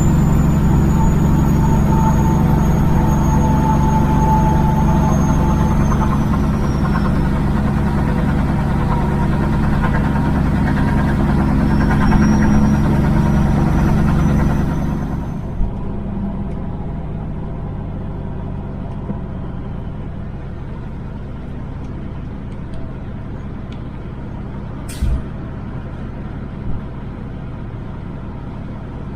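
Kenworth W900 semi truck's diesel engine running on the road, with a high whine that slowly falls in pitch. About halfway through, the engine drops to a quieter low rumble and the whine stops. A brief sharp noise comes near the end.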